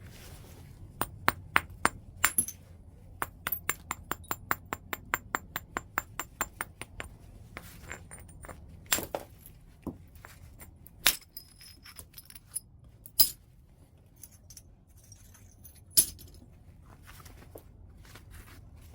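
Flintknapping a large piece of white chert: sharp, ringing percussion strikes on the stone. A few strikes come first, then a quick run of lighter taps at about four or five a second, then four single hard blows two or three seconds apart.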